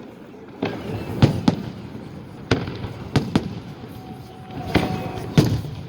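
Fireworks salute bursting overhead: about eight sharp bangs at irregular intervals, some in quick pairs, each with a short echoing tail.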